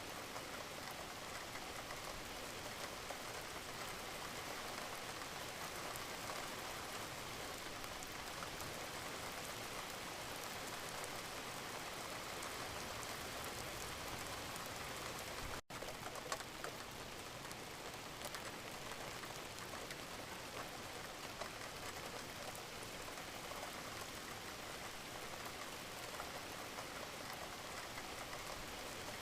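Gentle rain falling steadily, an even patter of many drops. The sound cuts out for an instant about halfway through.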